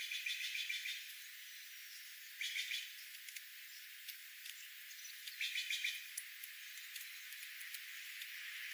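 A small bird singing three short, rapid trills a couple of seconds apart over a steady outdoor hiss.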